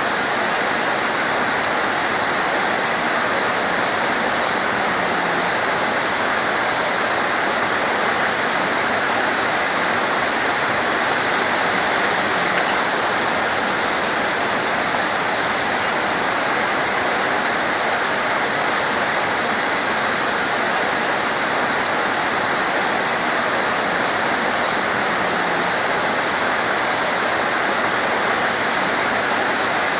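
Steady, dense hiss of torrential rain, with two brief sharp ticks about 2 and 22 seconds in.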